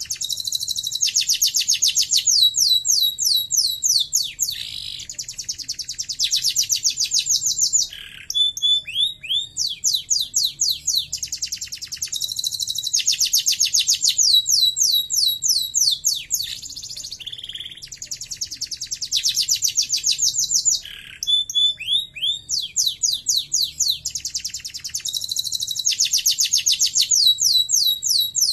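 Domestic canary singing: long rolls of very rapid, high trills at several pitches, joined by short gliding notes. The same sequence of phrases comes round again about every nine to ten seconds.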